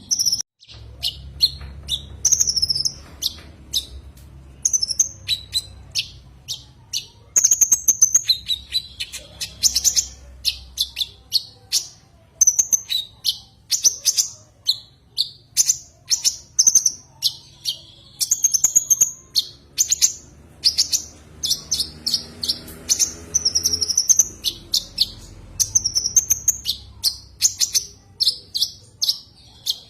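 A kolibri ninja sunbird (konin) calling: quick runs of short, high, sharp chirps, several a second, coming in bursts with brief pauses. It is the call used to challenge and lure a rival bird.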